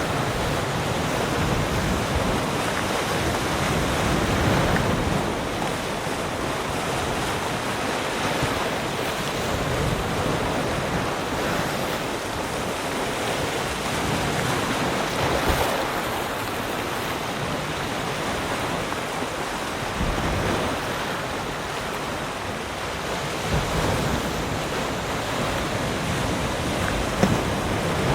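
Ocean waves breaking and washing on a shore in a steady, continuous rush, swelling and easing gently.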